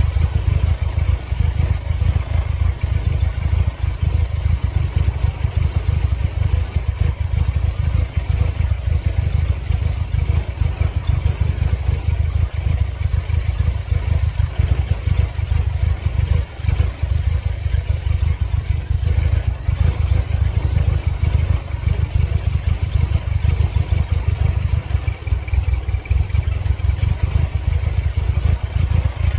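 Supercharged four-cylinder engine of a 1999 Mercedes-Benz C230 Kompressor running at a steady speed with no revving, its level flickering unevenly. The engine has serious problems and a periodically flashing check engine light.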